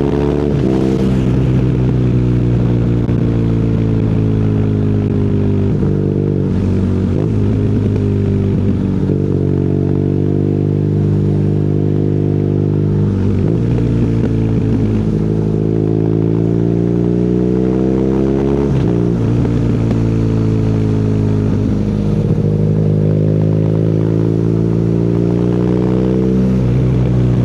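BMW R nineT boxer-twin engine through an Akrapovic exhaust, running under way as the motorcycle is ridden. The engine note rises and falls with the throttle and shifts abruptly in pitch several times.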